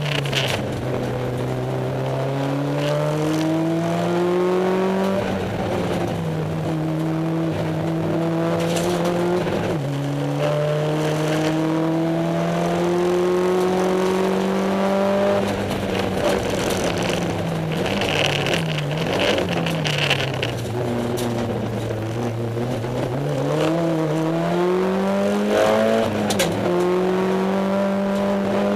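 Mitsubishi Lancer Evolution IX's turbocharged 2.0-litre four-cylinder engine at full throttle, heard from inside the cabin: the revs climb and drop sharply at each upshift, several times over. About two-thirds of the way through the revs fall and waver as the car slows for a bend, then climb hard again.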